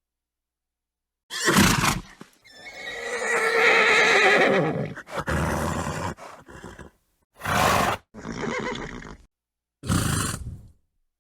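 Horses neighing and snorting in a string of separate calls: short bursts about a second and a half in, near eight seconds and near ten seconds, and one long wavering whinny from about two and a half to five seconds in, with dead silence between the calls.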